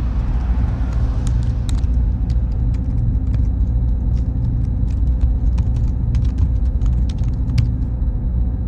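Server-room machine noise: a steady low hum and rumble with a faint high whine that comes in about two seconds in, and scattered light clicks.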